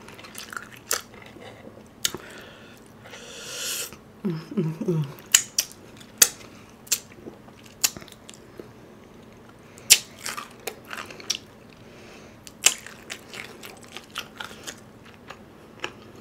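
Close-miked chewing and biting of fried chicken: wet mouth clicks and smacks scattered through, a short crunch about three seconds in, and a few brief hums just after four seconds.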